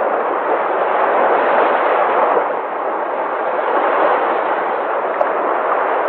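Sea waves breaking, a continuous surf noise that holds steady, easing slightly about halfway through.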